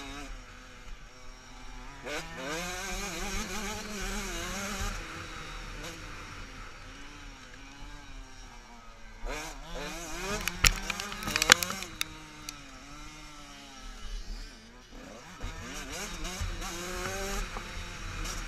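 Motocross motorcycles racing, their engines revving up and falling away again and again as the bikes accelerate and shift. Just past halfway there is a brief cluster of sharp, loud knocks.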